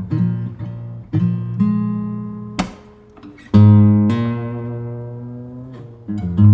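Background music on acoustic guitar: plucked and strummed chords, with a loud chord about three and a half seconds in that rings out and fades slowly.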